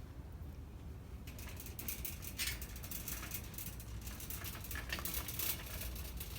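Rapid rattling and clicking, like a mechanism or handled objects, starting about a second in and going on in uneven clusters over a steady low hum.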